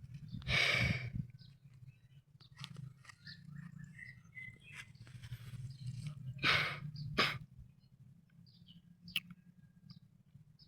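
Open-air countryside ambience: a steady low rumble underneath, scattered faint bird chirps, and two brief rustling noise bursts, one about half a second in and one around six to seven seconds in.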